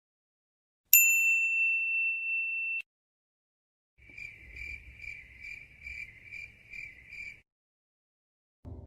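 A bright bell-like ding that strikes sharply and rings on one high tone for about two seconds before cutting off. After a pause comes a cricket-chirping sound effect, high chirps about two or three times a second for some three seconds.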